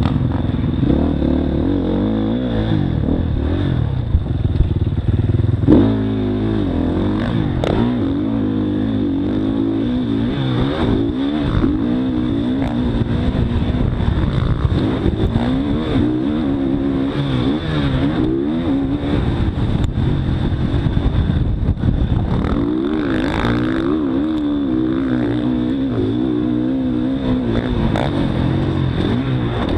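Motocross bike engine revving up and falling off again and again as it is ridden around a dirt track, with a couple of short sharp knocks in the first third.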